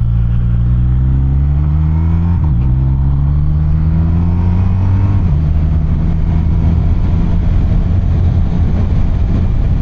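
BMW R1250RT's boxer twin engine pulling away and accelerating. It shifts up twice, about two and a half seconds in and again about five seconds in, then settles into a steady cruise.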